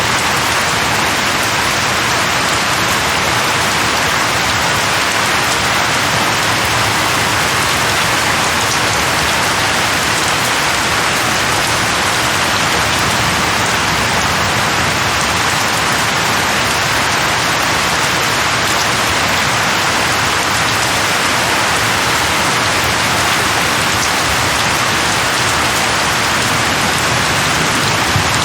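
Steady rain falling and pattering on surfaces, an even hiss with no thunder or pauses.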